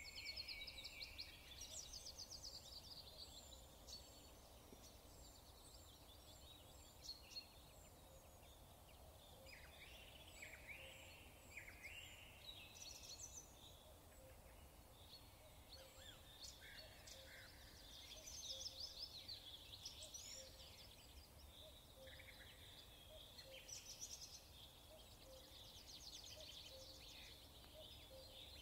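Faint birdsong: several small birds chirping and trilling, with overlapping quick chirps and rapid rattling trills.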